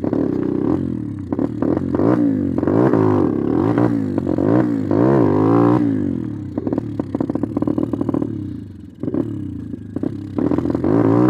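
Apollo X19 pit bike engine revving up and down again and again during clutch-up wheelie attempts, then running steadier and lower before revving up again near the end. It has a newly fitted Mikuni carburettor that still needs adjusting.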